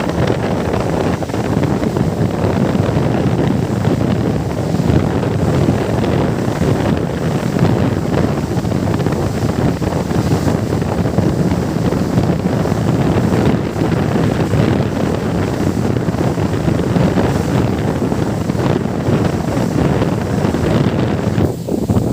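Wind buffeting the microphone on a moving boat, with water rushing past and a steady low drone underneath; it eases briefly near the end.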